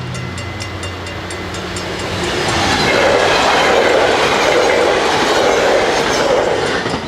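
A train passing over a level crossing, swelling to its loudest from about two and a half seconds in and falling away just before the end, with wheel clatter. The crossing's warning bells ring rapidly, about five strokes a second, and are heard plainly in the first two seconds before the train covers them.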